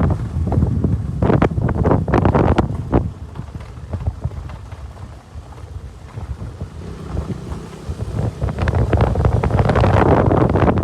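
Wind buffeting the microphone on a moving motorcycle, with the KTM RC 200's single-cylinder engine running underneath. The wind eases for a few seconds in the middle, then picks up again.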